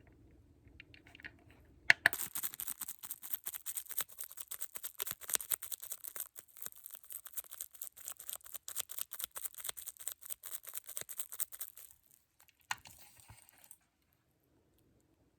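Dense, rapid crackling clicks and taps close to the microphone for about ten seconds, with a faint steady hum beneath them. They start with a sharp click and stop suddenly, followed by one more click.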